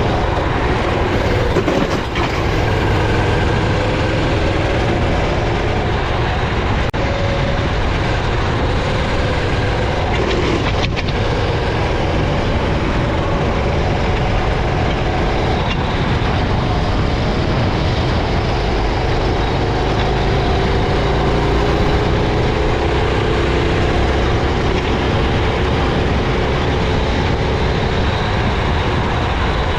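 Racing kart engine running hard, heard from onboard, its pitch slowly rising and falling as the kart accelerates and lifts for corners, over a steady rush of wind and road noise.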